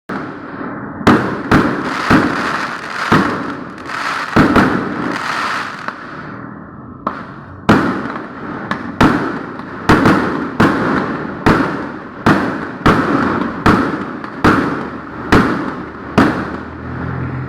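Fireworks going off: a run of sharp bangs, roughly one a second, each trailing off in a fading noisy tail, with a short lull about six seconds in.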